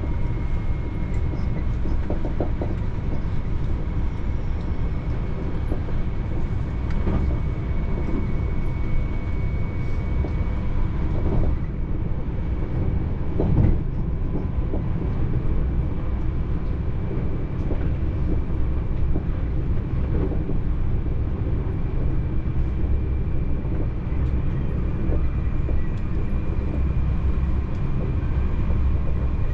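TER regional train running, heard from inside the carriage: a steady low rumble with a faint steady whine over it and a few short knocks.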